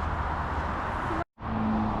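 Steady outdoor vehicle noise with a low engine hum, broken about a second in by a split second of dead silence where the recording cuts, then resuming with a slightly different hum.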